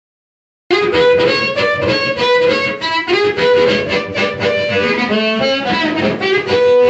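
Harmonica playing, with chords and bent notes, starting after a short silence about a second in.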